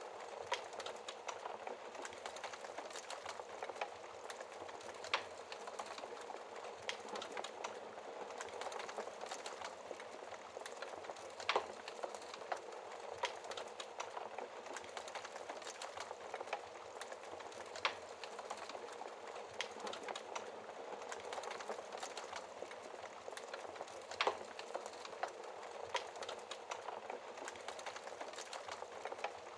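Wood fire burning in a fireplace: a steady soft hiss of flames with irregular crackles and sharp pops every few seconds.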